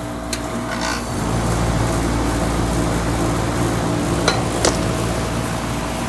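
3-ton Goodman GSX13 air conditioner condensing unit starting up. A click comes first, then about a second in the compressor and fan hum swells and settles into a steady run. Two sharp clicks come near the end.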